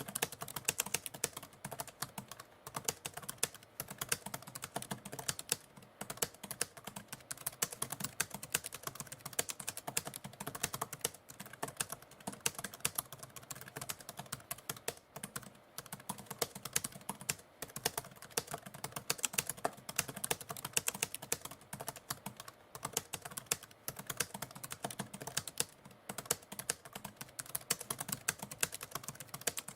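Manual typewriter keys struck in a rapid, uneven, continuous run of typing, with a few brief pauses.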